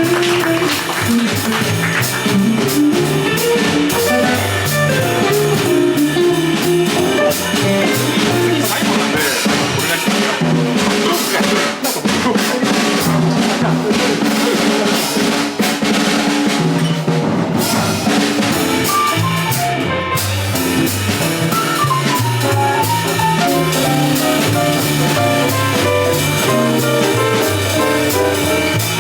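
Live jazz combo playing: drum kit with steady cymbal and drum strokes over stepping bass notes and a melodic lead line, with a higher melodic line coming in about two thirds of the way through.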